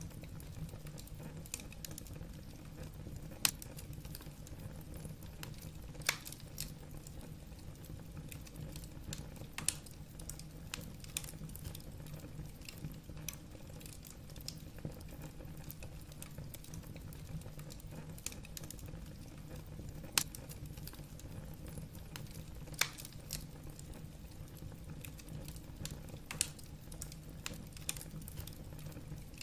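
Wood fire crackling in a fireplace: logs popping and snapping in irregular sharp clicks over a steady low rumble, with a few louder pops spread through.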